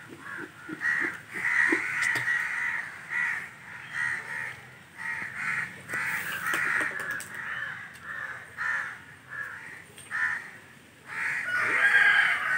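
Birds calling outdoors in a run of short repeated calls, about two a second, getting louder near the end.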